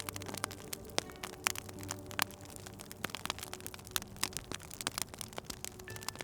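Wood fire crackling in a fireplace, with irregular sharp pops and snaps several times a second.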